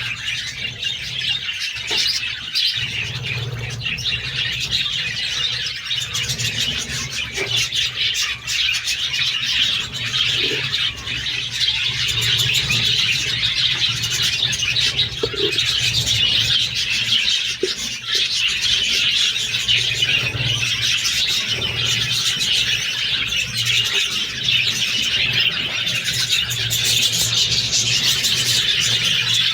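A flock of budgerigars chattering and chirping without a break, over a steady low hum.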